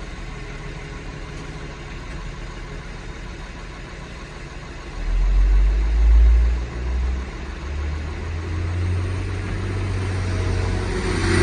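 A motor vehicle's engine: a low rumble that comes in about five seconds in and grows louder toward the end.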